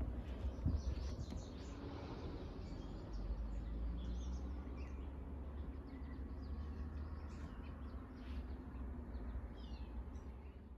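Several wild birds chirping and calling in short notes throughout, over a steady low rumble.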